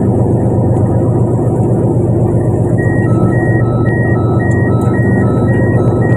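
Fishing boat's engine running with a loud, steady drone. About three seconds in, an electronic alarm starts beeping in two alternating tones, about two beeps a second.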